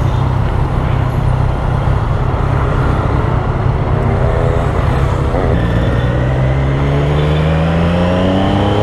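Triumph Street Triple's three-cylinder engine running at a steady note, then from about halfway accelerating, its pitch rising steadily as it pulls away.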